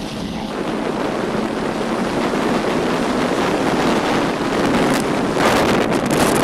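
Wind rushing over the microphone with vehicle road noise as the vehicle gets under way, a steady rushing that grows louder.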